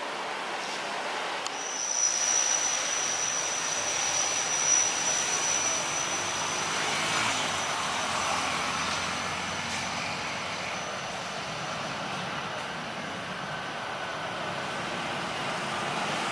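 Boeing 737 airliner's jet engines passing: a steady rushing noise with a thin high whine that sets in about a second and a half in and fades out after about ten seconds.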